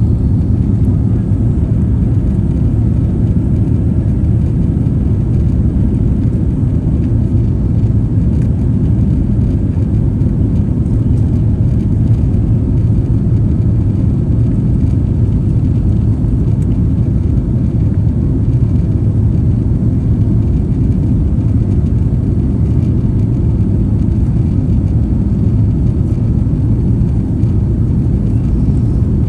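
Jet airliner's engines giving a loud, steady low rumble that does not change.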